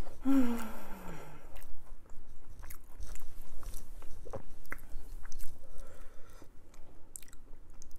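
Chewing and wet mouth sounds of a person eating a chicken Philly cheesesteak sandwich, with many small clicks and smacks. A short falling hum near the start.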